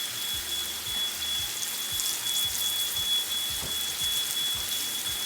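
A pan of chicken in a wine and broth sauce sizzling and crackling on the heat, with a few small clicks. A steady high-pitched whine sounds over it.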